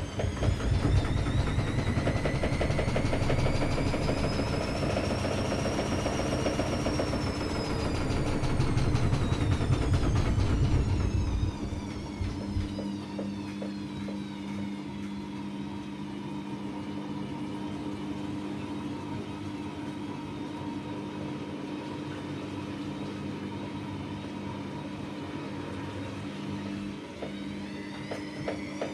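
AEG Lavamat Turbo washer-dryer's drum motor whining up in pitch and back down over about twelve seconds as the drum speeds up and slows, with a rumble from the turning drum. After that the machine hums steadily and more quietly, and near the end the motor whine starts rising again.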